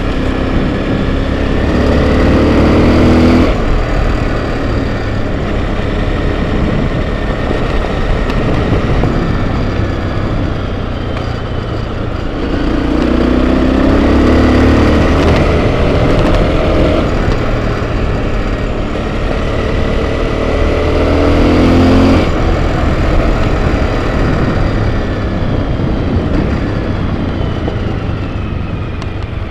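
Enduro motorcycle engine running on a trail ride, its note climbing under throttle and dropping off sharply three times: about a second in, near the middle, and about two-thirds through.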